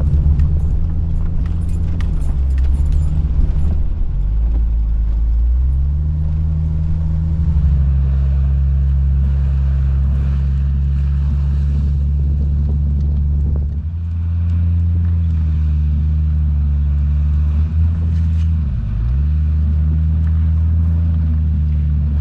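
Vehicle engine running steadily under way, its note shifting up and down several times as engine speed changes, with a short dip in the middle and a sharp drop and recovery in the second half.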